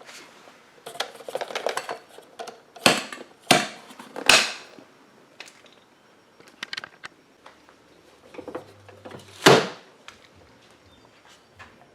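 Sharp plastic knocks and clicks, with some rustling, from handling the cordless stick vacuum's dust bin after emptying it, its motor off. The loudest knock comes about three quarters of the way through.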